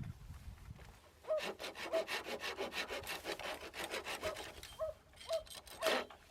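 Hand saw cutting through bamboo: steady back-and-forth strokes starting about a second in, about two a second, each with a short squeak.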